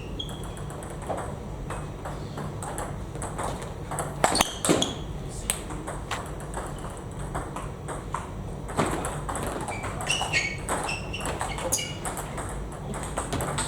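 Table tennis ball clicking off rackets and the table in a large hall, the knocks irregular with a few louder ones, mixed with short high squeaks.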